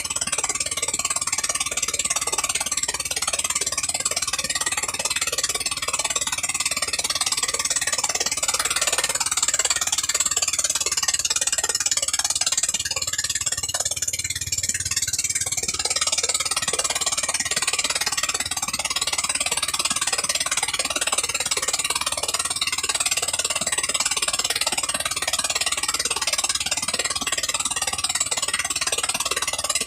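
A 13 HP gasoline engine running steadily, with a brief change in its sound about halfway through.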